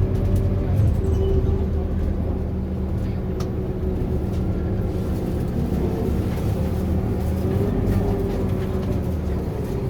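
Scania K230UB Euro 5 bus's diesel engine running steadily as the bus drives, a continuous low drone with a fainter wavering whine above it.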